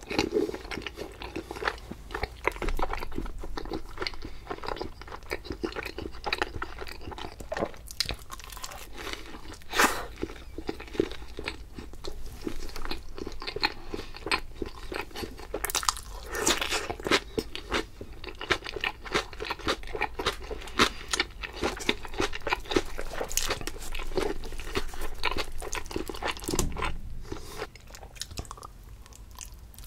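Close-miked biting and chewing of Papa John's pizza, with many small crunches and crackles from the crust in an irregular run that eases off near the end.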